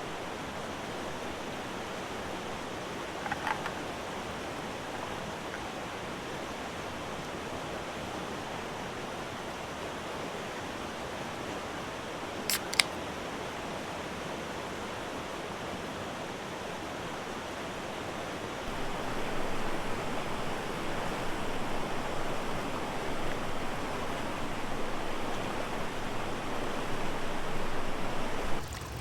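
River water rushing steadily, with a short faint chirp a few seconds in and one sharp click about halfway through. The rushing gets louder for roughly the last ten seconds, then drops off suddenly near the end.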